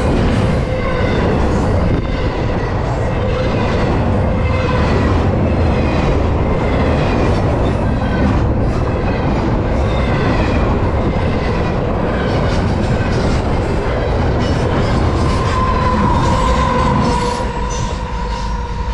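Double-stack intermodal container cars of a freight train rolling past close by: a steady rumble of wheels on rail with squealing wheels. A steady high squeal comes up about three-quarters of the way through, and the overall level drops near the end.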